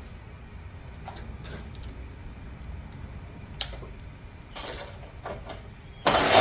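Scattered light clicks and knocks of small objects being handled, with a louder scrape lasting about half a second near the end.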